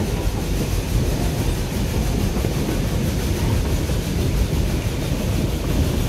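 Puffing Billy narrow-gauge steam train carriage running along the track, heard from on board: a steady, low rumble of the wheels on the rails.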